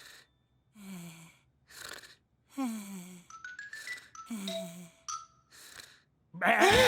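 Cartoon snoring in an even rhythm: low voiced snores that fall in pitch, each followed by a breathy exhale. A short rising run of soft chime notes sounds in the middle, and a louder voiced sound comes near the end.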